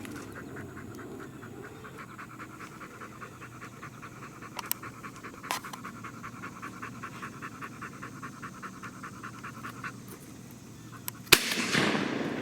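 A dog panting fast and steadily, with two faint distant gunshots in the middle. Near the end comes one loud, close shotgun shot.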